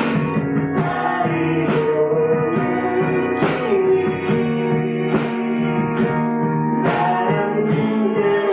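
Live song with guitar chords strummed at a steady beat over held notes.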